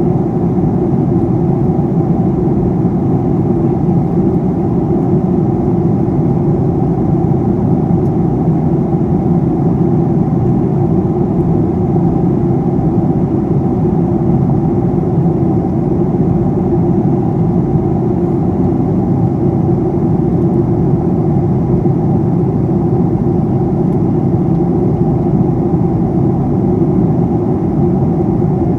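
Steady cabin drone inside a Boeing 737-800 in flight: the CFM56-7B engines and the air rushing past the fuselage, an even low rumble with no changes.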